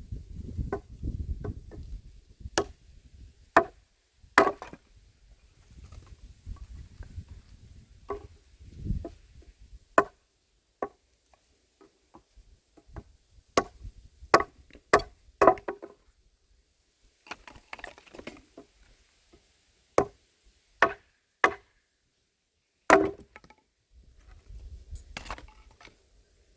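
Handmade axe chopping wood: about a dozen sharp single strikes at an uneven pace, some in quick runs of two or three, with pauses between.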